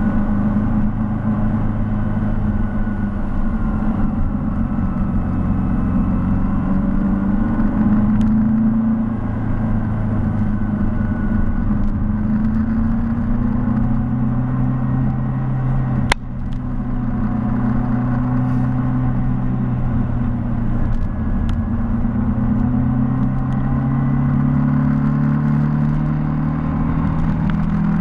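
Mini car's engine heard from on board while driving, its note slowly rising and falling with the road. About halfway through a sharp click comes with a brief dip in level, after which the engine note settles at a new pitch.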